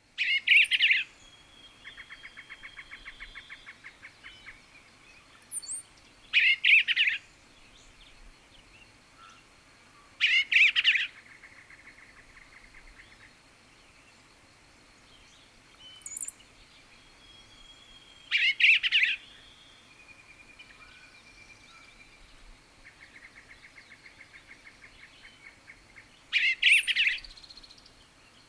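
A songbird singing short warbled phrases about a second long, five times, with pauses of several seconds between them. A fainter, dry, even trill from another bird comes in between the phrases twice.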